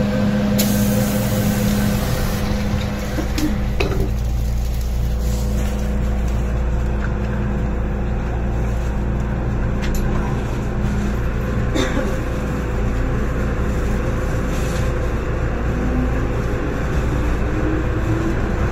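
Inside an MTR M-train trailer car running through a tunnel: a steady rumble and hum of wheels and running gear, with a hiss near the start and a few sharp clicks scattered through. Near the end a faint tone rises in pitch.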